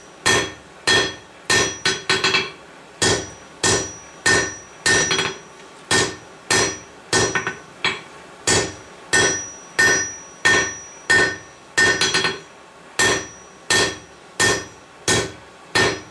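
Blacksmith's hammer striking steel on an anvil in a steady forging rhythm, about a blow and a half per second, each blow ringing briefly, some followed by a lighter rebound tap.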